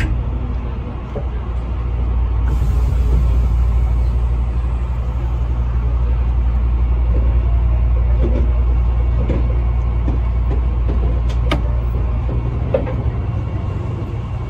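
Tobu 8000-series electric train running slowly, heard from inside the driver's cab: a steady low rumble from the motors and wheels on the rails, with a few scattered clicks and knocks.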